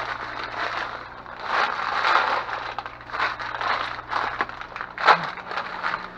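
Plastic candy wrappers and bags crinkling and rustling as they are handled and sorted, in irregular bursts, with a sharp click about five seconds in.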